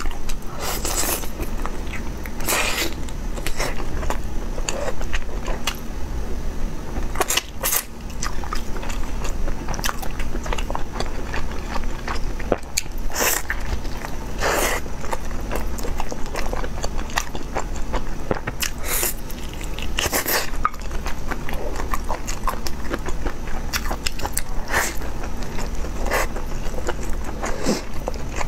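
Close-miked eating sounds: a person biting and chewing food, with irregular wet mouth clicks and smacks over a steady low hum.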